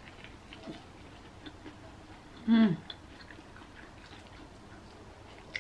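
Faint wet chewing and small mouth clicks from eating corn on the cob. About two and a half seconds in comes one brief voiced sound from the eater, falling in pitch.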